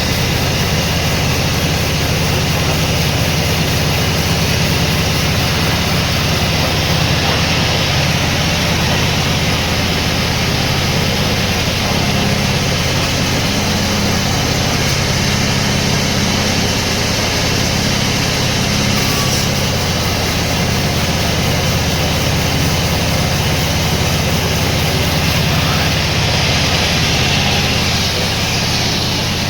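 Heavy machinery engine running steadily, a continuous even drone with no change in speed.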